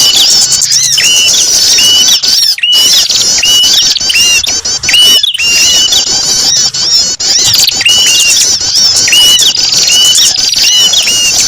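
Bird-lure recording of many small birds calling at once: a dense, loud chatter of high chirps. Over it, one call repeats about once or twice a second, a short note that rises sharply and then holds level.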